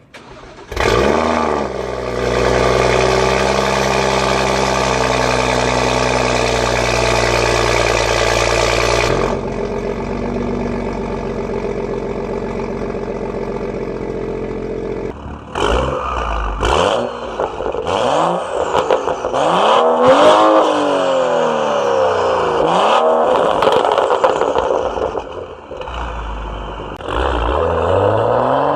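BMW M235i turbocharged straight-six with a catless downpipe, resonator-deleted M Performance exhaust and JB4 tune starting up about a second in and flaring, then idling steadily; the idle drops lower about nine seconds in. From about fifteen seconds on it is revved in repeated blips that rise and fall, with sharp pops and bangs on the overrun.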